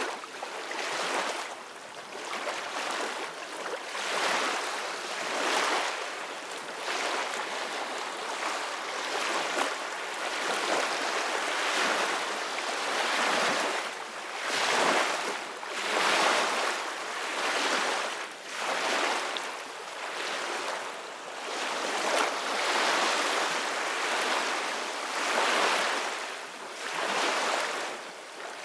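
Ocean waves washing in: a steady hiss of surf that swells and eases every couple of seconds.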